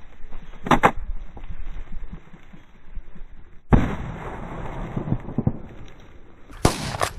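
A quail covey flushing all at once, a sudden burst of wing noise about three and a half seconds in that lasts a few seconds, followed near the end by a loud shotgun shot.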